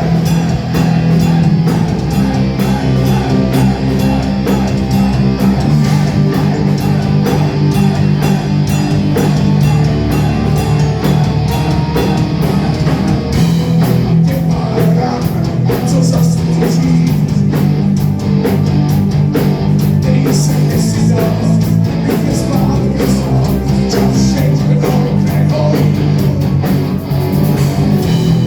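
A rock band playing live: electric guitar, bass and drum kit, with singing.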